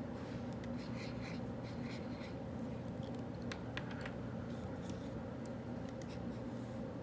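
Writing on paper: short, faint scratching strokes and a few light clicks, irregularly spaced, over a steady low room hum.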